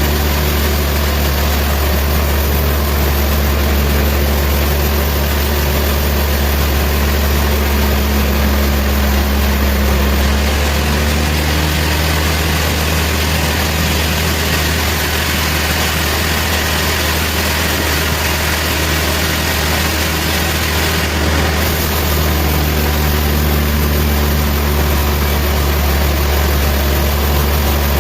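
Sawmill machinery running with a steady low drone and constant hiss. For about ten seconds in the middle the tone shifts and the hiss grows stronger.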